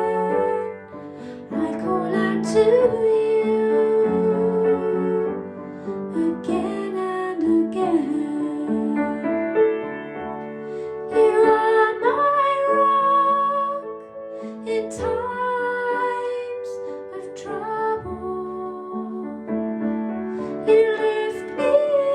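A gentle song with a woman singing over piano or keyboard accompaniment.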